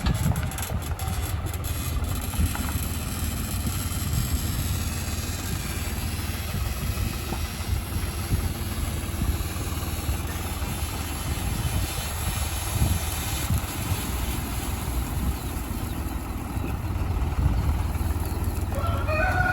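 Heavy diesel engine of an earthmoving vehicle running steadily.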